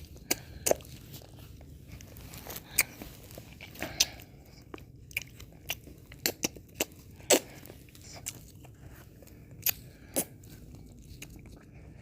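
Close-miked mouth sounds of eating ice cream: licking, chewing and lip smacks, heard as irregular sharp wet clicks over a low hiss.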